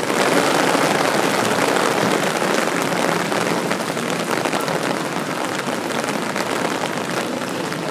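Rain falling and pattering on surfaces, a dense, steady hiss of many small drop hits. It steps up louder at the very start and eases off a little towards the end.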